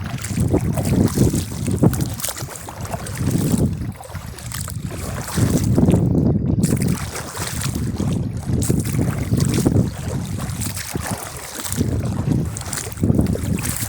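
Wind buffeting the microphone, a low rumble that swells and fades in gusts every second or two.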